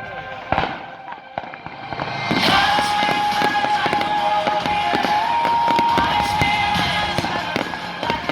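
Fireworks display going off: two sharp bangs in the first second and a half, then from about two seconds in dense crackling and popping, over music with long held notes.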